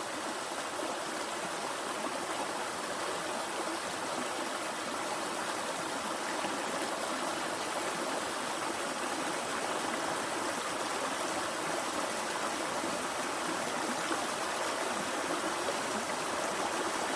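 Creek water pouring over a small waterfall, a steady, even rush.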